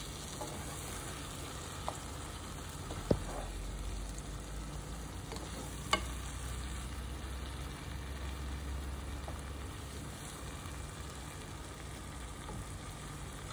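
Brinjal slices and tomato-onion masala sizzling steadily in oil in a nonstick pan while a silicone spatula stirs them gently, with three brief clicks, about 2, 3 and 6 seconds in.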